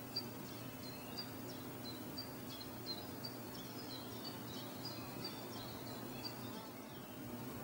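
Small birds chirping in many short, high notes, scattered irregularly, over a faint steady low hum.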